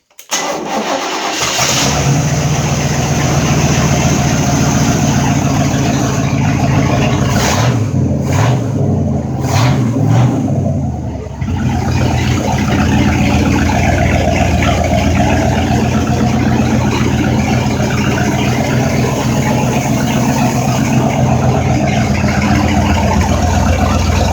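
Mercruiser 5.7-litre V8 marine engine starting up and running, with a few quick throttle blips about a third of the way in, then settling into a steady idle.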